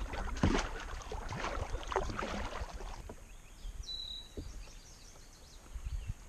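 Kayak paddle strokes splashing and dripping in lake water, irregular for about three seconds, then quieter water sounds with a brief high chirp about four seconds in.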